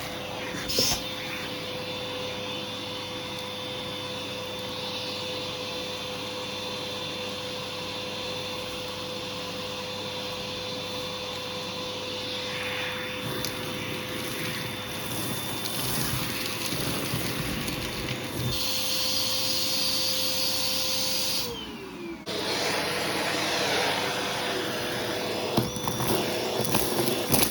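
Hoover vacuum cleaner running steadily with a hose tool, a constant motor whine over rushing air. A little after twenty seconds its pitch sinks briefly and the sound dips, then it picks straight back up; a short knock near the start and light clatters near the end.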